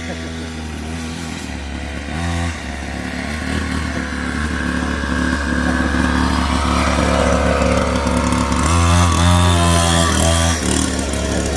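Small kids' pit bike engine running steadily, growing louder through the middle, its pitch rising and falling briefly about three-quarters of the way through as the throttle changes.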